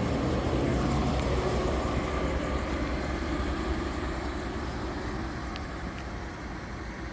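Chevrolet Tahoe's 5.3-litre V8 running steadily at low speed, its sound slowly growing quieter; two faint ticks near the end.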